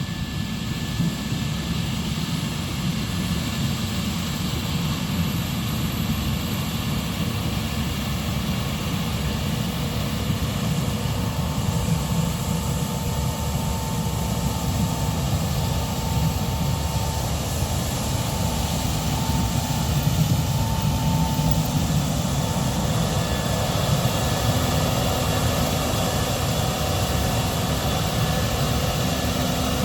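Case IH 6140 combine running steadily while harvesting corn: a continuous low engine rumble with a faint steady whine through the middle stretch.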